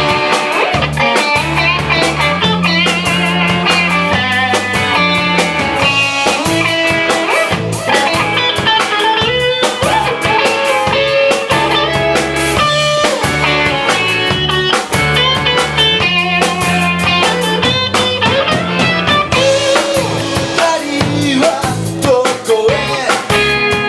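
Live blues-rock band playing: guitar over drums and a steady low bass line.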